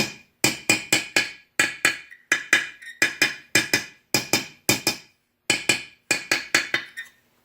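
Hammer tapping a roller bearing home into a Sears Custom 6 garden tractor's transaxle case, sharp ringing knocks in quick runs of two to four, about three or four a second. The changed, more solid ring of the taps is the sign that the bearing has bottomed and is seated. The tapping stops just after seven seconds.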